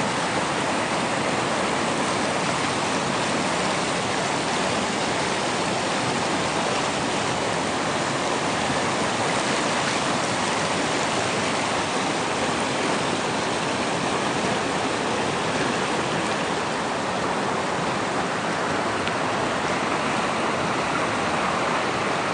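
A fast, swollen river rushing and churning, a steady even roar of water.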